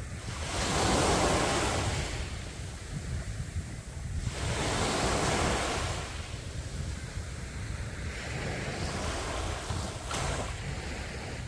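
Sea waves breaking and washing up the beach in three slow surges, each building and fading over a couple of seconds. Wind rumbles on the microphone underneath.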